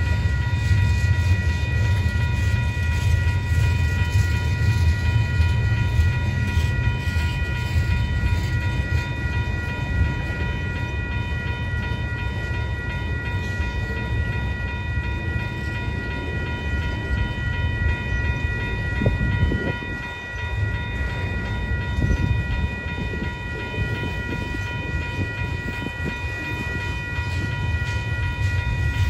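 Union Pacific manifest freight train rolling past, its cars making a steady low rumble, with a steady high-pitched ringing tone held over it.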